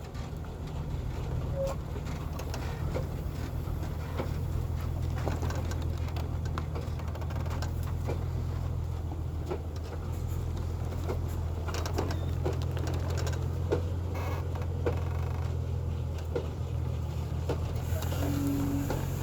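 Heavy timber truck's diesel engine running with a steady low drone, with scattered clicks and knocks of rattling parts over it.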